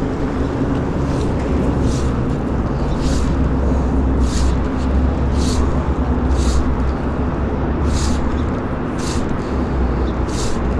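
Steady low outdoor rumble of flowing river water and wind, with a soft high swish about once a second.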